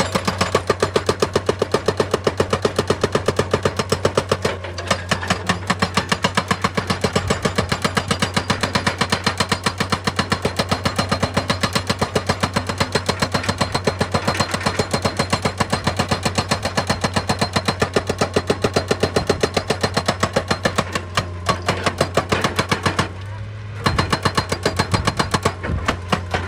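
Excavator-mounted hydraulic rock breaker hammering stone in a rapid, even stream of blows, over the steady hum of the machine's diesel engine. The hammering stops briefly about three seconds before the end, then starts again.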